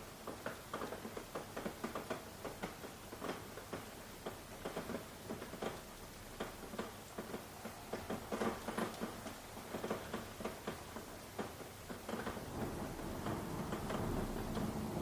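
Rain: separate drops pattering irregularly, several a second, over a faint steady hiss of rainfall that grows fuller near the end.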